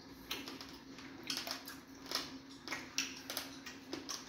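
Eating sounds from fufu with egusi soup: irregular wet clicks and lip smacks of chewing, about eight in a few seconds, over a faint steady hum.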